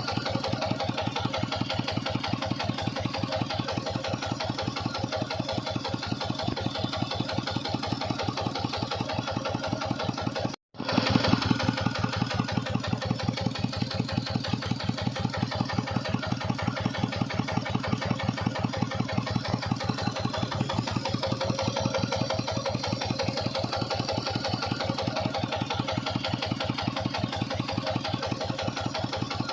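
Tractor engine running steadily with an even beat while it drives a water pump. The sound cuts out completely for a split second about ten seconds in, then carries on a little louder.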